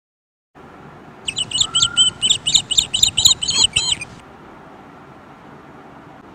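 A songbird singing a quick run of high chirps, about four or five a second, starting about a second in and stopping after about three seconds, over a faint steady background hiss.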